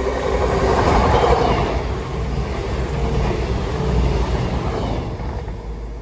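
CrossCountry Voyager diesel multiple unit passing close by at speed. Its engine noise and wheel rumble peak as the front goes by, about a second in. The coaches then rush past with some clickety-clack, and the sound dies away near the end.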